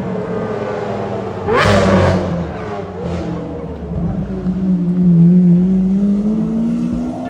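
Sports car engine revving: a sharp rev about one and a half seconds in, then a steady run with the pitch slowly rising near the end.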